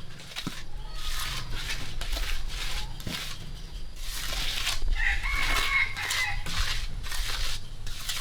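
A rooster crows once, a held call about five seconds in, over irregular scuffing and rustling noises.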